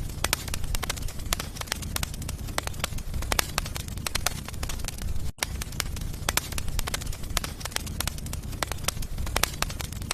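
Wood fire burning in a fireplace, crackling and popping irregularly over a steady low rumble. It cuts out for an instant about five seconds in.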